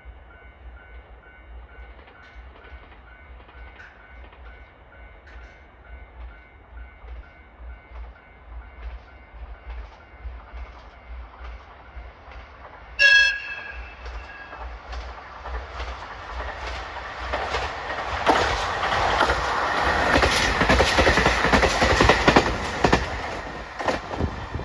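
KiHa 283 series diesel limited express train approaching and giving one short whistle blast about halfway through. It then passes at speed with loud, rapid wheel clatter over the rail joints, which begins to fade near the end.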